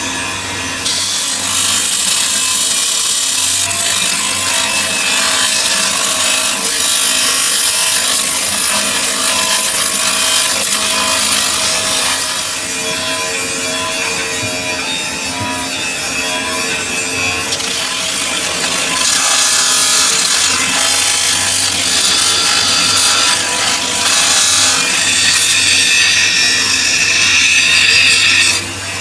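Metal lathe running with a cutting tool working a metal bush: a steady, harsh scraping over the machine's low hum, growing louder in the second half.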